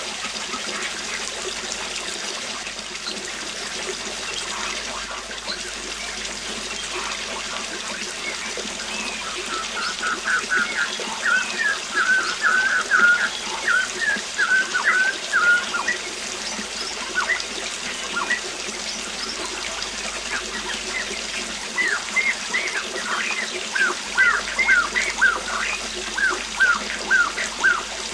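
Waterfall rushing steadily, with a songbird singing quick runs of high chirps over it, once in the middle and again near the end.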